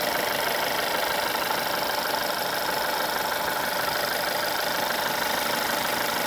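VW Golf 6 TSI petrol engine idling steadily with a fine clacking, which the owner leans toward taking for normal at 60,000 km.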